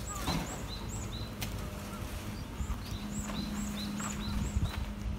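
A small songbird calling repeatedly: a run of short, high, arched chirps, two to three a second.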